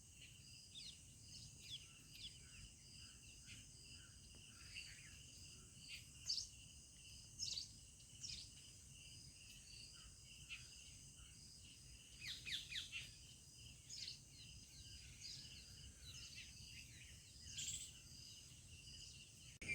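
Faint rural ambience: a steady high insect trill with short bird chirps scattered through it, a quick run of chirps about twelve seconds in.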